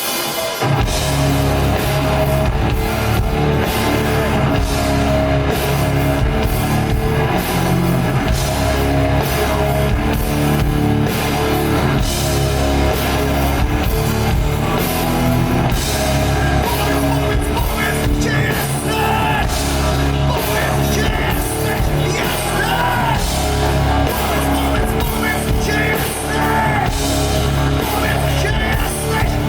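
Metal band playing live: loud, dense instrumental passage with heavy bass and drum kit, the full band coming in about a second in.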